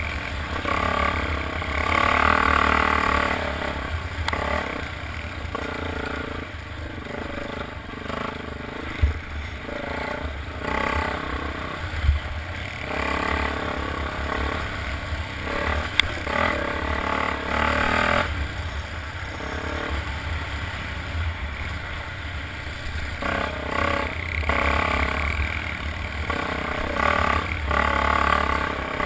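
Motocross motorcycles running and revving, the engine noise swelling and fading several times as bikes rev and pass, over a constant low rumble. A few short sharp knocks are scattered through it.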